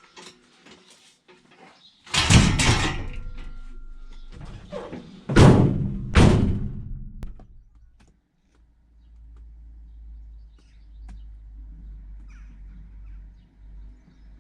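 A heavy thunk about two seconds in, then two loud slams of the van's doors shutting in quick succession. After them comes the low, steady rumble of the van's engine running.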